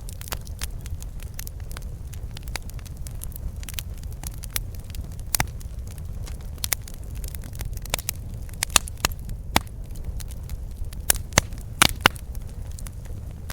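Campfire burning with irregular crackles and sharp pops, a few louder snaps around the middle and toward the end, over a steady low rumble.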